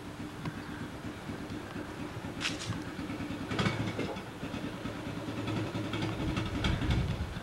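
An engine idling steadily, with a few sharp clicks, growing a little louder in the second half.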